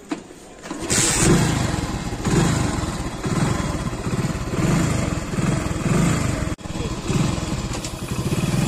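Hero Honda motorcycle's single-cylinder four-stroke engine starting about a second in, then running and revving up and down about once a second.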